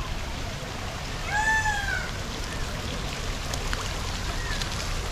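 A bird gives one loud, meow-like call that rises and falls about a second and a half in, and two fainter calls follow later, over a steady rush of running water.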